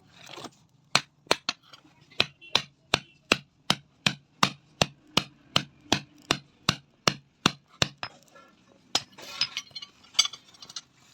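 Hand hammer striking metal on an anvil in a steady rhythm, about three blows a second, as a hammer head is forged by hand. The blows stop about three-quarters of the way through, and a short rustling, scraping noise follows.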